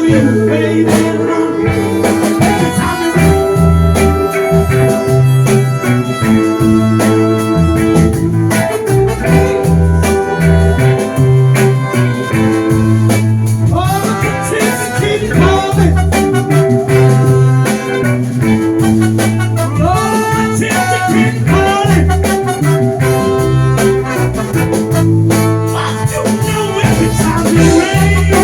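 Live soul band playing an instrumental passage of a slow song: a stepping bass line and drums under sustained and bending lead notes.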